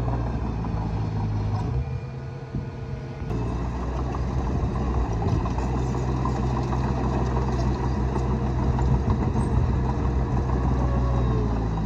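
Diesel engine of heavy earthmoving machinery running steadily. It dips briefly a couple of seconds in, then comes back a little louder about three seconds in.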